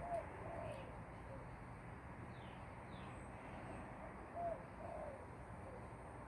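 A bird giving low cooing calls: a group of three short notes, repeated about four seconds later. Two faint, high falling chirps come in between.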